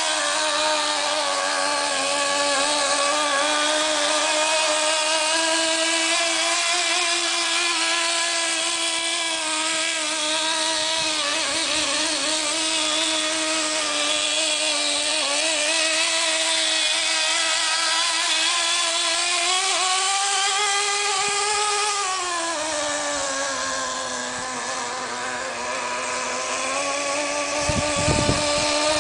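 Kyosho Blizzard's .18 nitro two-stroke glow engine running at a steady pitch. About twenty seconds in the pitch rises briefly, then falls away over a couple of seconds and settles lower. A few low thumps come near the end.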